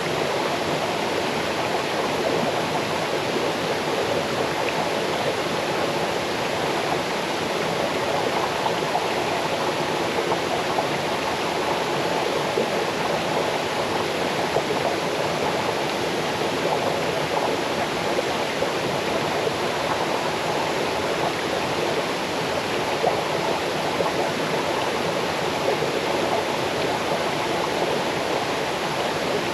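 Small forest waterfall cascading into a stream: a steady, even rush of falling water.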